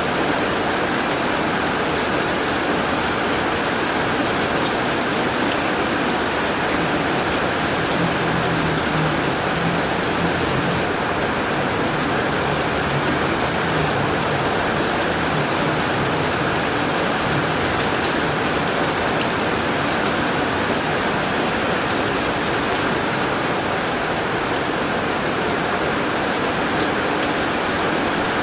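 Rain pouring steadily on a tin roof: a dense, even hiss scattered with sharp ticks of single drops striking the metal.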